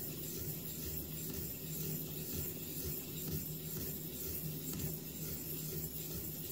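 Faint repeated strokes of an oiled diamond sharpening stone on a guided knife sharpener, rubbing along a recurved knife edge.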